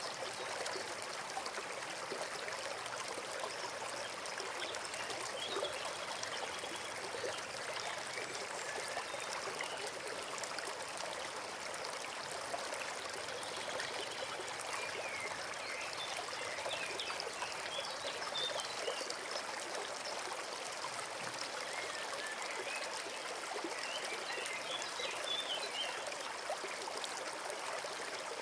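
Small forest stream trickling and babbling steadily, with faint short bird chirps now and then.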